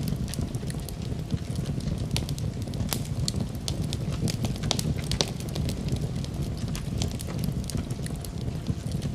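Fire burning in a fireplace, crackling with frequent irregular pops and snaps over a low, steady rumble of the flames.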